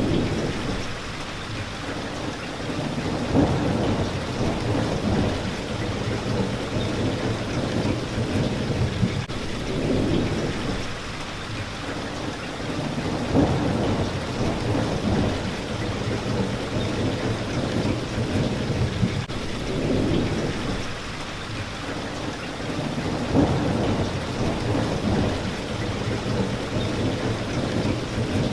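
Steady rain hitting a window, with low rumbles of thunder swelling about every ten seconds.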